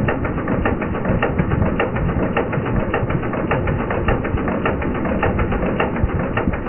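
Mitsubishi 4A30 inline-four engine running with its cam cover off, the exposed rocker arms and valvetrain giving a fast, even ticking over the steady engine noise.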